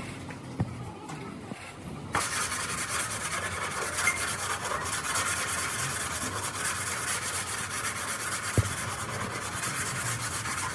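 Steady rasping sanding of car bodywork, starting about two seconds in, with a single sharp knock partway through.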